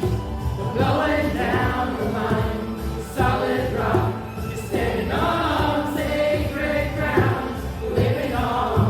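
A choir singing together, in sung phrases of about a second each.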